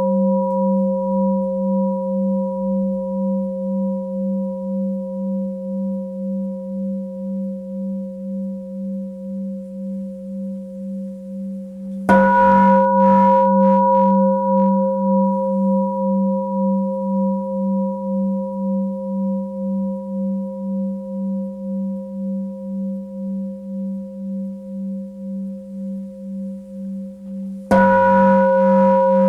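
Tibetan singing bowl struck twice, about 15 seconds apart. Each stroke rings on and slowly fades, with an even wavering beat in its low hum.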